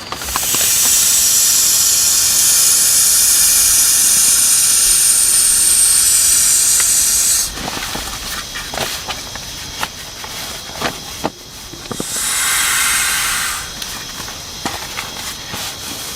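A loud, steady hiss starts suddenly and cuts off after about seven and a half seconds, then comes again briefly near the end, with scattered light clicks and patter in between.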